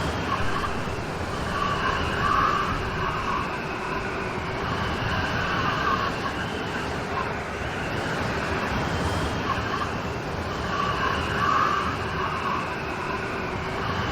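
Steady rain storm: an even rush of rainfall, with faint wavering tones in it that swell twice, about nine seconds apart.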